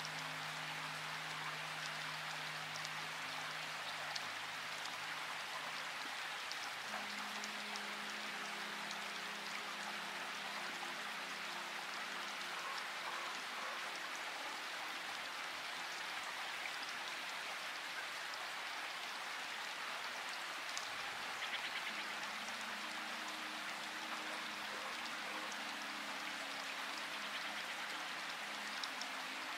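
Steady rain with a patter of drops, over soft, slow held music chords low in pitch that change every few seconds.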